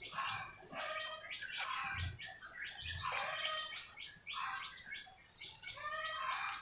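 Small birds chirping and twittering in rapid, repeated bursts of short notes, with two dull low thumps about two and three seconds in.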